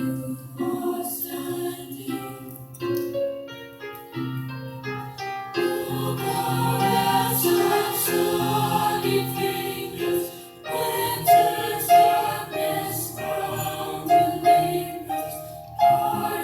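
School chorus singing with musical accompaniment, notes held and changing throughout.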